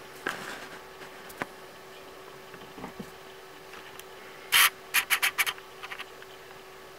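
Hands working on a Toshiba Satellite L505 laptop during repair: a few light clicks, then about four and a half seconds in a quick run of short scratchy rubbing strokes, the first the longest and loudest. A faint steady hum runs underneath.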